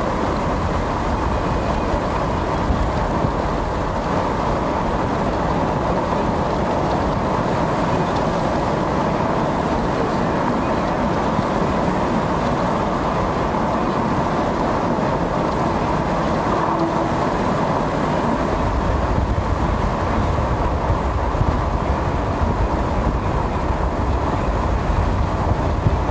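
Steady vehicle running and road noise heard from inside the moving vehicle, with the low rumble growing heavier about three-quarters of the way through.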